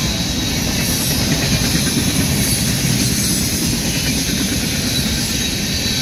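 Freight train of boxcars and refrigerated cars rolling past: a steady rumble of steel wheels on rail with an even hiss above it.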